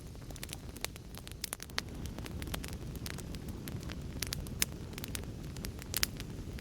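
Fire crackling: irregular sharp pops and snaps over a steady low rumble of burning, several louder pops about four and a half and six seconds in.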